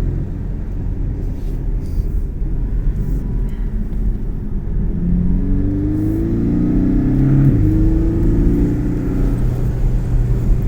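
Porsche 718's engine pulling under load on the road, its pitch climbing steadily and then dropping at a gear change about seven and a half seconds in, over a constant low road rumble.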